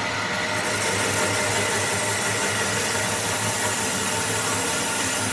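A machine running steadily: an even mechanical hum with a constant high whine and no change in speed.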